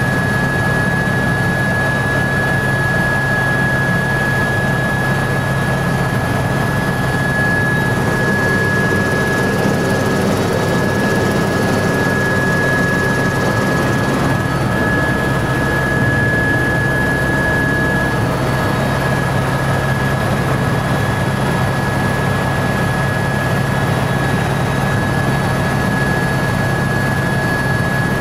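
Helicopter in flight, heard from on board: a loud, steady engine and rotor drone with a constant high whine that does not change.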